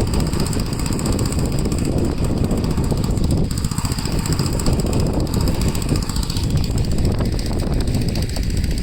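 Gravely L8 walk-behind tractor's engine running steadily.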